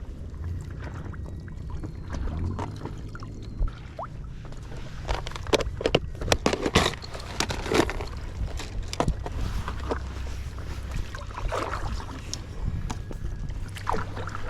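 Water sloshing and splashing around a small paddled craft, most likely a stand-up paddleboard on the sea, with a run of sharp knocks and splashes in the middle and a steady low rumble of wind on the microphone.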